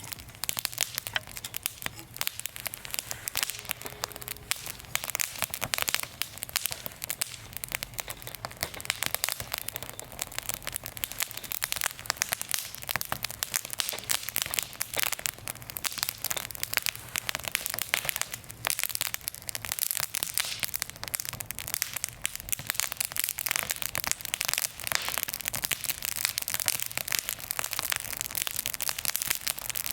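Wood fire crackling, a steady stream of small sharp pops and snaps.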